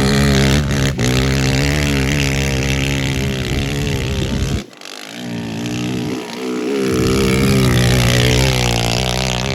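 Pit bike engine running and revving. About halfway through its sound suddenly drops away, then picks back up.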